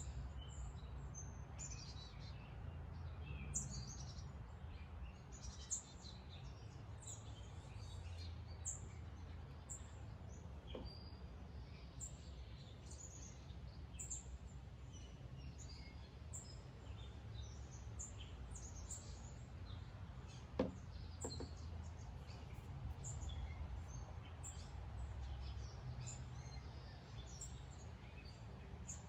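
Wild birds chirping, with many short, high calls throughout over a steady low outdoor rumble. A single brief click comes about two-thirds of the way through.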